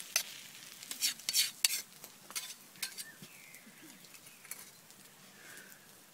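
Utensil scraping and tapping in a frying pan several times, mostly in the first three seconds, over a faint sizzle of the omelette frying.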